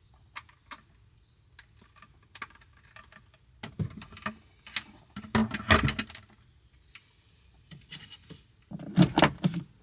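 Scattered light clicks and taps from handling small objects, with louder clusters of knocks and rustling in the middle and again near the end.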